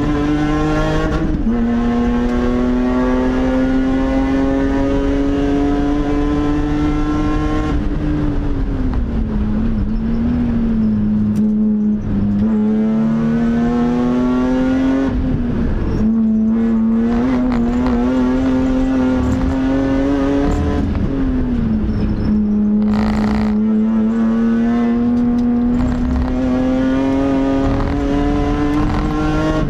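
BMW M3 engine driven hard on track, heard from inside the cabin: the engine note climbs steadily through each gear and drops sharply at each gear change, about five times. A brief rushing noise cuts in about two-thirds of the way through.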